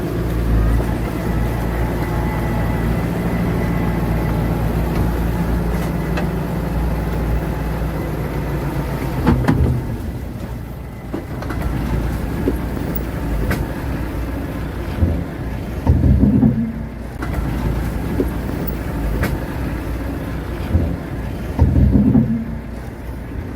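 Heavy diesel engine of earthmoving machinery running steadily, then labouring in uneven surges, with two louder pushes about two-thirds of the way through and near the end, and a few sharp metallic clanks.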